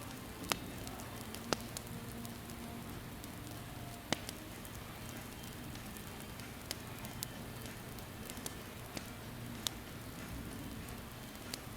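Campfire crackling: a steady hiss with sharp pops at irregular intervals, the loudest about half a second, one and a half and four seconds in.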